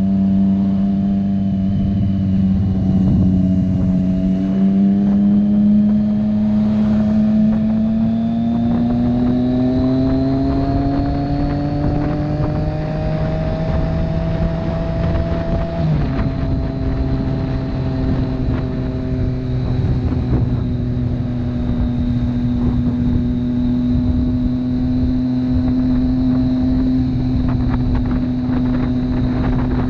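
Motorcycle engine under way, its pitch climbing slowly as it speeds up, then dropping at a gear change about halfway through and holding steady at cruise, over road and wind noise.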